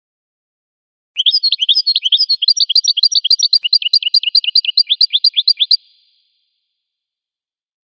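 A goldfinch singing one fast, even trill of repeated sliding notes, about seven or eight a second. The trill starts about a second in and stops after about four and a half seconds.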